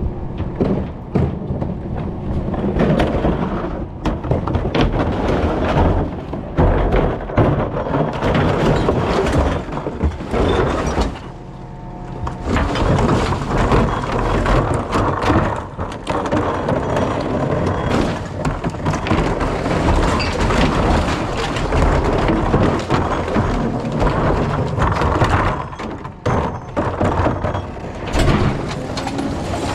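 Rear-loader recycling truck at work: its engine running under a continuous clatter of thumps, cracks and crunching, easing off briefly a little before the middle.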